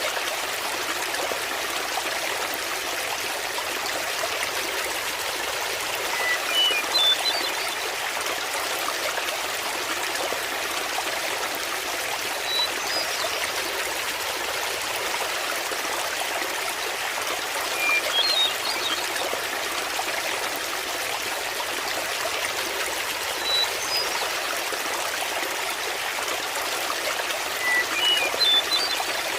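Waterfall water running steadily. Short, high chirps come in about every five to six seconds.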